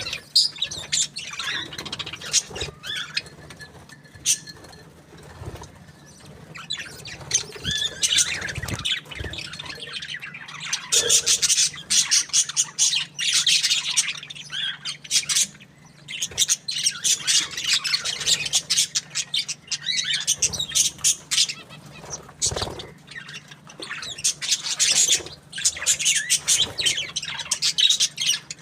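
Budgerigars (budgies) chirping and squawking, with many short high calls in quick, overlapping strings and a faint steady low hum underneath.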